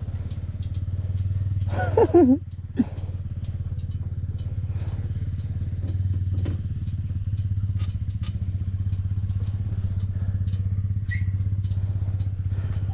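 Yamaha MT-07 parallel-twin motorcycle engine idling steadily, with no revving. A brief voice sounds about two seconds in, and a few small clicks and clatters are heard over the idle.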